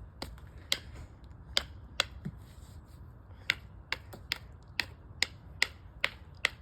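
Flintknapping: a chipper tool striking and pressure-flaking the edge of a stone arrowhead, giving sharp, separate clicks about two a second at an uneven pace.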